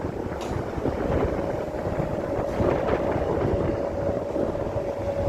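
A truck driving on a rough road: engine and road rumble with rattling, and a faint steady whine from about a second in.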